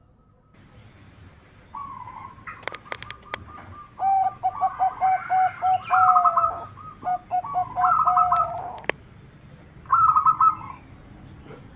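Zebra dove (perkutut) cooing, several phrases of rapid, evenly repeated staccato notes that recur every couple of seconds. A few sharp clicks come near the start.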